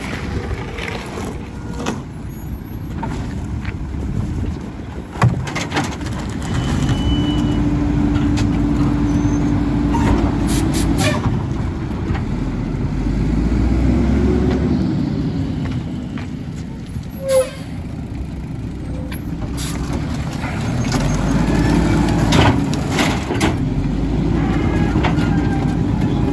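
Mack LE garbage truck's diesel engine running hard while its Heil packer body compacts trash. A steady hydraulic whine runs for a few seconds, and sharp knocks and clatters of trash break in several times.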